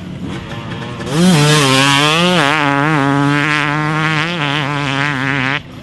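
2018 Yamaha YZ250X's single-cylinder two-stroke engine running at high revs, coming in about a second in with short rises in pitch and then holding high before cutting off abruptly near the end.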